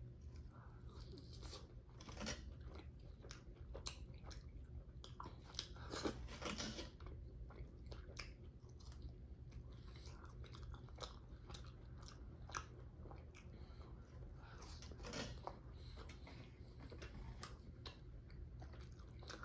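Close-miked mukbang eating: a person chewing and biting food, with scattered crisp crunches and wet mouth clicks, over a faint steady low hum.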